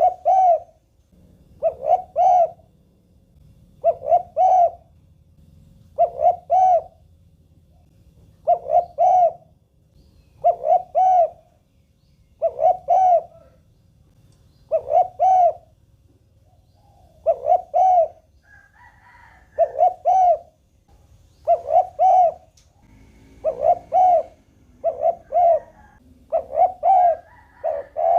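Spotted dove cooing: a short two-part coo repeated about every two seconds, coming faster, roughly once a second, in the last few seconds.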